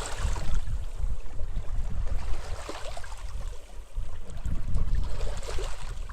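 Sea waves washing up on a beach, a hissing surge of surf about every two and a half seconds, over gusting wind rumbling on the microphone.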